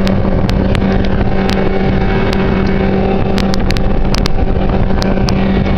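Boat motor running at a steady, constant pitch under way, over loud rushing noise, with scattered short sharp knocks.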